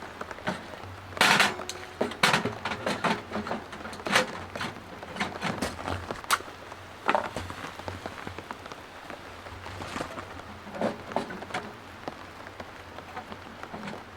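Rain falling in large drops, tapping and pattering irregularly on the tent and nearby surfaces, with several louder knocks among the taps.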